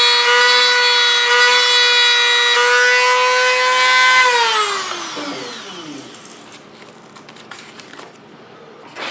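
Dremel rotary tool spinning a brass tube at a steady high-pitched whine, with a rubbing hiss as the heated tube burns rivet rings into primer. About four seconds in it is switched off and the whine falls in pitch as it spins down, followed by a few faint clicks.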